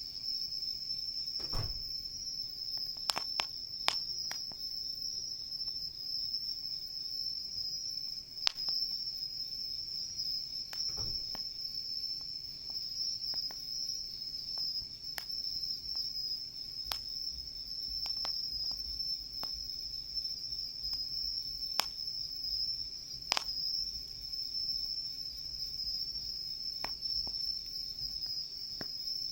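A steady, high-pitched chorus of night insects, with sharp crackles and pops from a wood campfire scattered through it.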